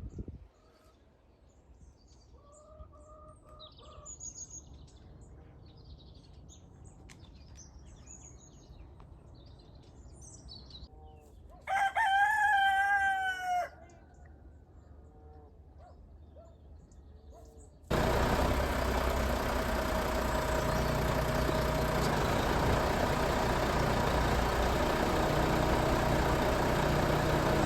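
Faint small-bird chirping, then a rooster crows once, loudly, for about two seconds. About eighteen seconds in, a loud steady engine-like mechanical noise starts abruptly.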